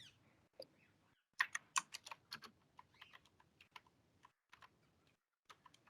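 Faint typing on a computer keyboard: scattered key clicks, with a quick run of keystrokes about a second and a half in, then slower, sparser taps.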